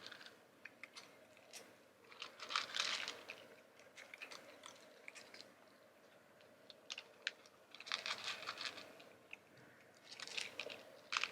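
Crunching in three short bursts, with scattered faint clicks between them.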